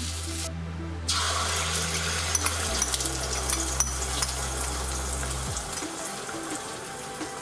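Water running from a kitchen tap into a sink, a steady hiss with small clicks and splashes, over background music with a steady low bass line.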